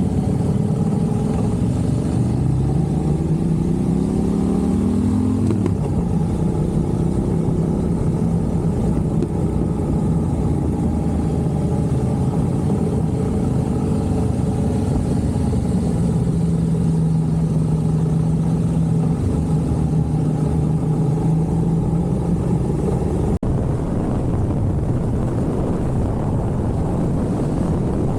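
Motor vehicle engine speeding up, its pitch rising for a few seconds before it settles into a steady run, under steady road and wind noise. About 23 seconds in the sound breaks briefly and turns into a more even rush of wind noise.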